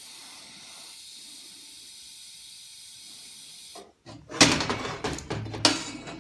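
TIG welding torch hissing steadily, cutting off just before four seconds in, followed by a run of loud knocks and clatter.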